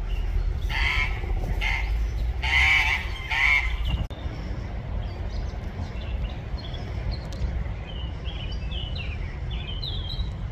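An adult duck calls loudly four times in the first four seconds, then ducklings give a run of short, high peeps, over a steady low rumble.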